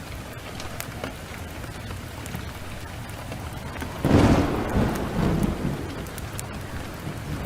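Steady heavy rain with scattered small crackles from a wood fire. About four seconds in, a sudden loud thunderclap breaks and rumbles away over a couple of seconds.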